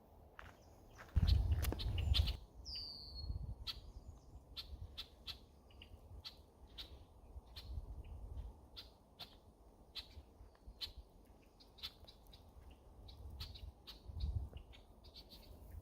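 Woodland birds chirping, a quick run of short sharp notes about two to three a second, with one falling whistled note about three seconds in. A loud low rumble about a second in.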